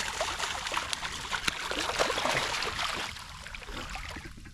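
Shallow water splashing and churning in a continuous jumble of small splashes and drips: a hooked redfish thrashing at the surface in flooded grass.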